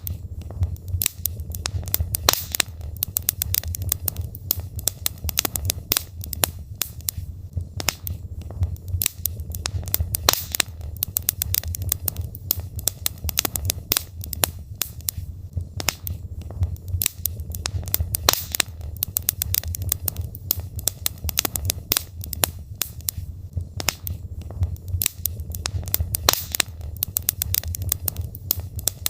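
Wood fire crackling in a fireplace: burning logs pop and snap in quick, irregular clicks over a steady low rumble of the flames.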